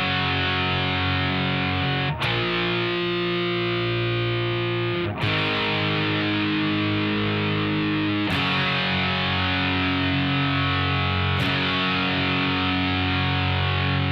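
Distorted electric guitar playing held power chords, a new chord struck about every three seconds and left to ring.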